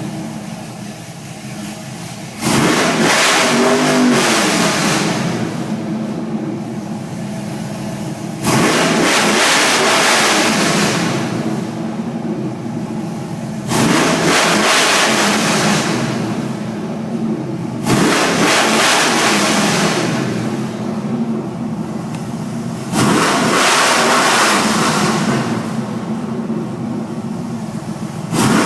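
Chevy 6.0 V8 truck engine revved hard from idle five times, each rev held a few seconds before dropping back to idle. The owner says each rev stumbles around 4000 rpm before carrying on to the rev limiter, and that this sets a misfire code.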